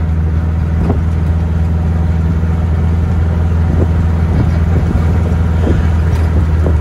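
Air-cooled VW flat-four engine of a 1969 Barris Mini T running as the car is driven: a steady low drone.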